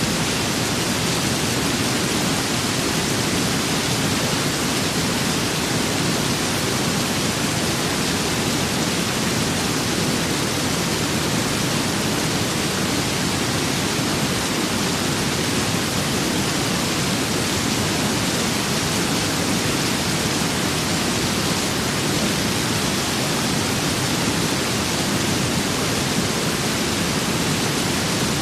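Steady rain and wind ambience: an even, unbroken hiss with a fuller low rush underneath, no single drops, gusts or changes standing out.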